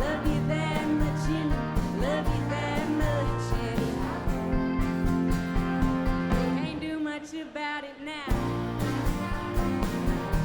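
Live band playing a country-rock song, with drums, bass and guitars. About seven seconds in, the drums and bass drop out for a moment; about a second later the full band comes back in.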